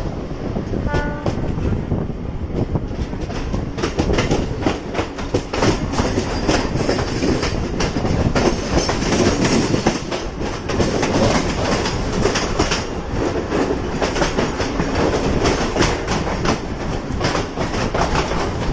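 Mumbai suburban local electric train running at speed: a steady rumble with wheels clicking rapidly over rail joints. A short, high, tonal beep or hoot sounds briefly about a second in.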